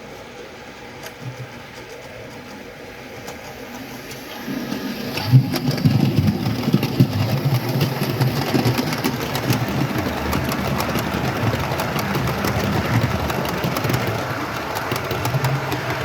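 OO gauge model train running on the layout track: a small electric motor whirring with wheels ticking over the rails, much louder from about four and a half seconds in as the train comes close.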